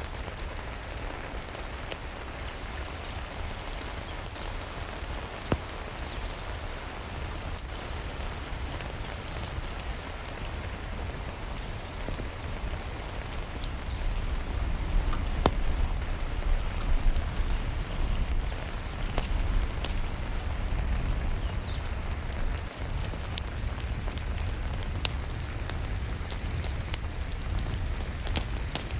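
Steady rain falling, with scattered sharp crackles and pops from a wood fire in a fireplace. A deep low rumble underneath grows louder about halfway through.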